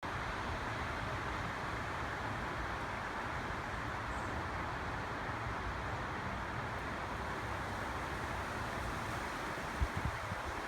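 Wind blowing through trees: a steady rustle of leaves, with a brief low buffet of wind on the microphone near the end.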